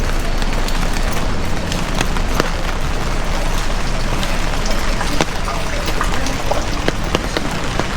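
Heavy rain falling, a steady hiss with sharp individual drops striking close by, scattered irregularly throughout.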